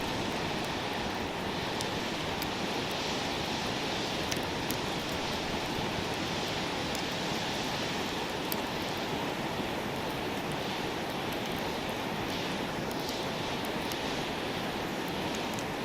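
Steady rushing hiss with scattered small crackles of a wood campfire.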